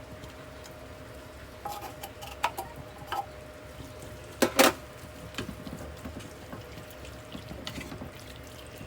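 Mushrooms being added to a pan of butter, garlic and onion: a steady low hiss of cooking with several sharp knocks and clicks of a utensil against the pan, the loudest pair of knocks about halfway through. A faint steady hum runs underneath.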